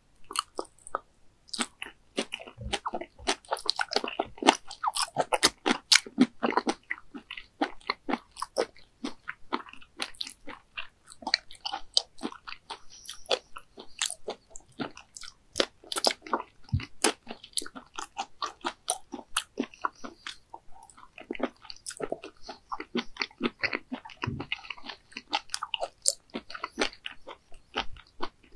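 Someone chewing raw baby squid sashimi dipped in vinegar and red pepper paste, a dense, irregular run of short mouth clicks and smacks.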